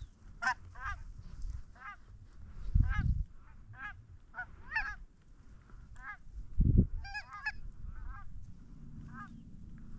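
Geese honking: a flock's short, repeated honks, several at a time, coming every fraction of a second. Two short low thuds, about three and seven seconds in, are the loudest sounds.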